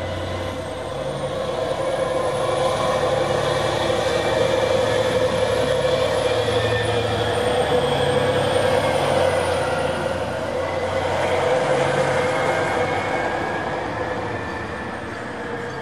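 DB class 111 electric locomotive and its double-deck coaches rolling slowly through curved station trackwork: a steady rolling noise with several thin whining tones that drift slowly in pitch, swelling a couple of seconds in and easing off near the end.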